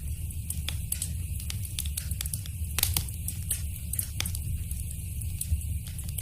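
Wood fire in a fireplace crackling and popping over a steady low rumble of the flames, with a cluster of sharper pops about three seconds in.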